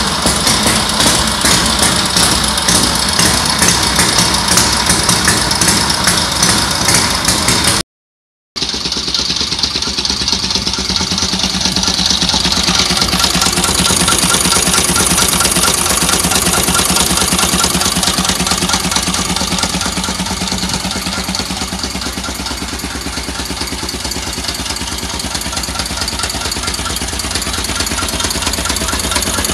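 Restored 1920s BMW R42 500 cc side-valve flat-twin motorcycle engine running steadily at idle, with an even, fast mechanical beat. The sound drops out briefly about eight seconds in.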